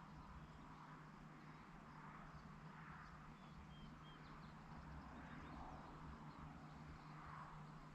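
Near silence: faint rural evening ambience, a soft haze that swells and fades every couple of seconds over a steady low hum, with a few faint high chirps about halfway through.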